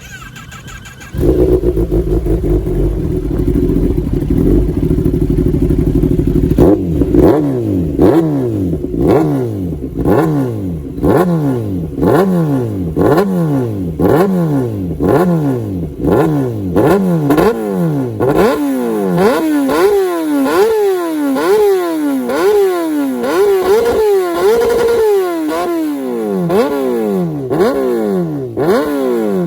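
2019 Kawasaki Ninja ZX-10R inline-four on an Arrow Competition EVO full titanium exhaust starting up about a second in and idling, then revved in quick throttle blips, about one a second, with the pitch rising and falling each time.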